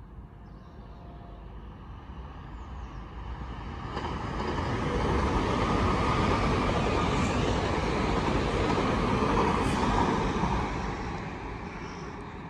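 Electric multiple-unit passenger train passing at speed: the sound of its wheels on the rails grows from about four seconds in, stays loud for several seconds, then fades away.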